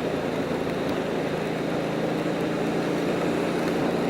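Motorcycle engine running at a steady speed, under steady wind and road noise.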